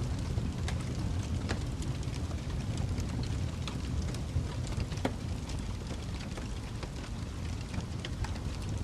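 Fireplace crackling: a steady low rumble of burning wood with irregular sharp pops and crackles scattered throughout.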